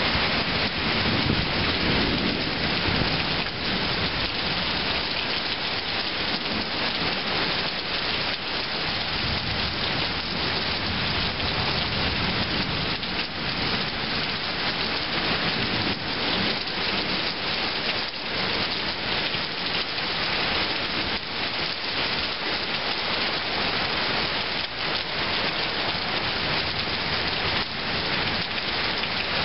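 Heavy rain pouring steadily in a thunderstorm. A low thunder rumble dies away near the start.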